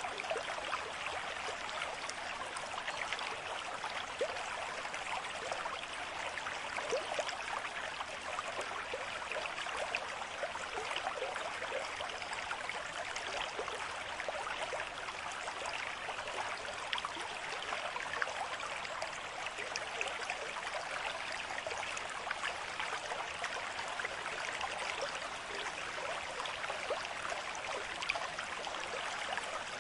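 A small stream flowing steadily: an even rush of water thick with little splashes and trickles.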